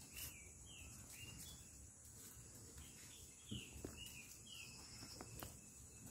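Faint bird chirping: a string of short, high chirps, each falling in pitch, repeated irregularly over a quiet outdoor background. A few soft taps come through about halfway.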